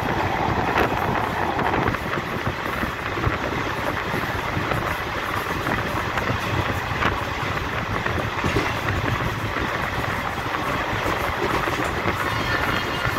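A passenger train running at speed, heard from inside the coach: a steady rushing rumble of wheels on rails, with a few faint clicks.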